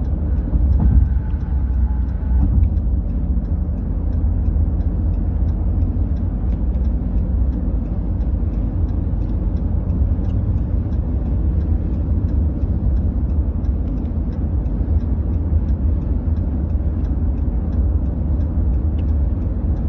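Steady low rumble of idling or slowly moving vehicles, with a brief faint tone about a second in.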